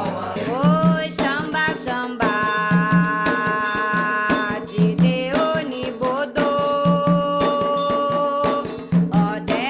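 Afro-Brazilian religious chant for Xangô: a voice holding long notes, sliding up into them, over hand drums keeping a steady beat of about one low stroke a second, with sharper percussion strikes between.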